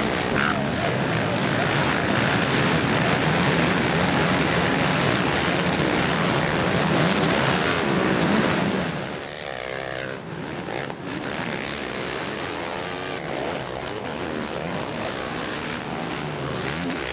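Four-stroke motocross bikes racing, engines revving hard in a loud, dense din. About two-thirds of the way through it drops noticeably quieter, leaving fewer bikes whose revs rise and fall as they shift and accelerate.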